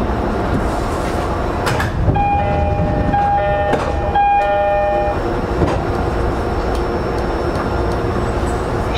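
E231 series commuter train standing at a station: the car's steady equipment hum and rumble, a sharp click about two seconds in as the doors open, then the door chime sounding three falling two-note dings.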